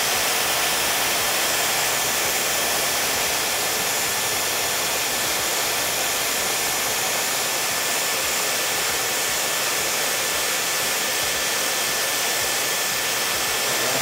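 Smart-sensor hair dryer, a Dyson Supersonic lookalike, running on its max setting: a steady, unbroken rush of air with a faint high whine.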